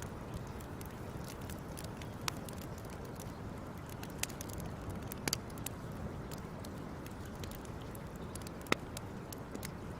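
Wood fire crackling: a steady low rush with irregular sharp pops and snaps, a few louder ones scattered through.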